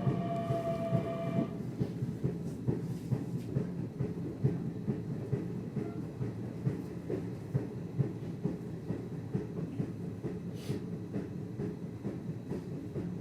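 Nishitetsu commuter train heard from inside the car: a steady rumble of wheels on rails with irregular clicks. A falling whine fades out about a second and a half in, and a brief hiss comes about ten seconds in.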